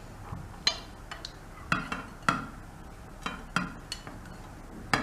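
About six sharp knocks and clinks at uneven intervals from a microwave-safe bowl being handled as a baked cake is turned out of it.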